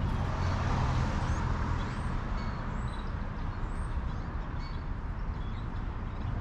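Backyard ambience: short bird chirps scattered over a steady low rumble, with several chirps close together partway through.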